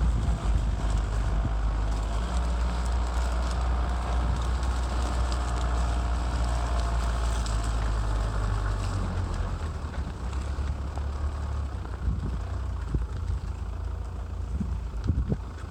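Motocross motorcycle engines running on a grass track, heard under heavy wind rumble on the microphone; the engine sound is a little stronger in the first half and eases off somewhat after the middle.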